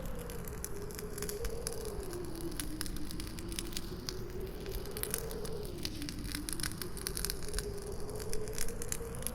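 Campfire crackling with many irregular sharp pops, over a howling wind whose pitch slowly rises and falls.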